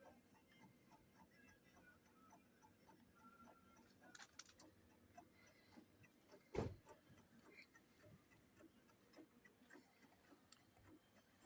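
Near silence with faint, fairly regular ticking and small clicks, and one louder knock about six and a half seconds in.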